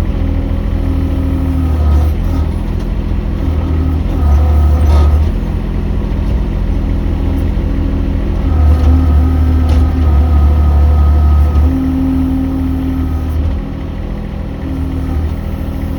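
Mini excavator's diesel engine running steadily, its rumble and tone shifting every few seconds as the machine works.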